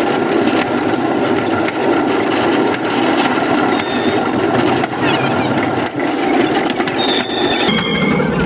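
Old train running: a steady rattling rumble with irregular knocks, and a brief high squeal about seven seconds in.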